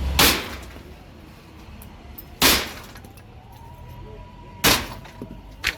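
Demolition work: three heavy blows about two seconds apart, each a sharp crash of breaking material, with a smaller knock near the end.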